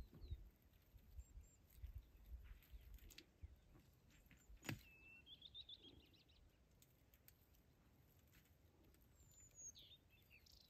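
Near silence with faint bird calls: a short chirping trill about five seconds in and a brief falling call near the end. A sharp click comes just before the trill, and a few soft low thumps fall in the first four seconds.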